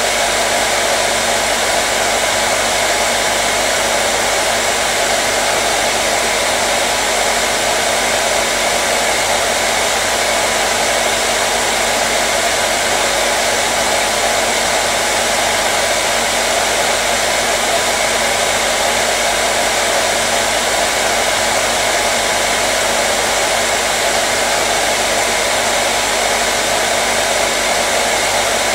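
Electric hair dryer running steadily: an even, unchanging rush of blown air with a faint steady motor hum.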